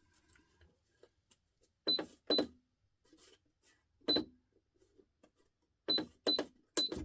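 Buttons pressed on an electronic calculator, each press with a short high beep: six presses at uneven spacing, two close pairs among them.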